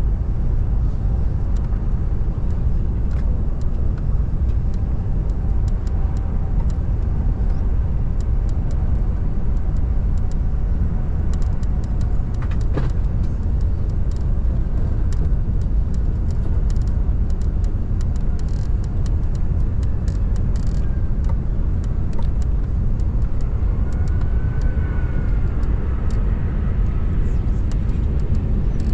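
Steady low rumble of airliner cabin noise, with engine and airflow noise heard from inside the Airbus A380 on approach.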